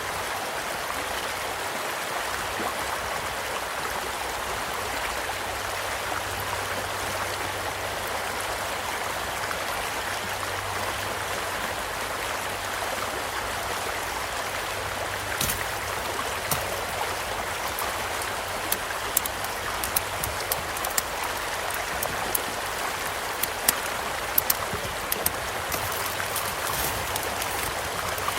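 Small stream flowing with a steady rush, and a wood campfire crackling over it. Sharp pops and snaps start about halfway through and come more often toward the end.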